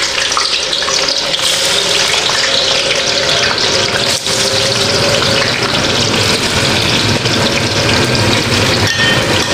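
Sliced tofu frying in hot oil in a steel wok: a loud, steady sizzle.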